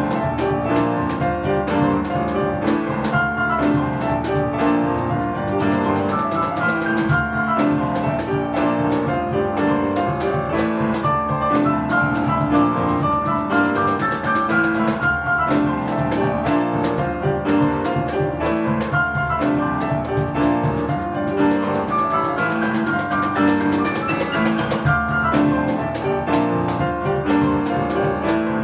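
Piano playing a fast, busy piece, with percussion hits keeping a dense rhythm underneath.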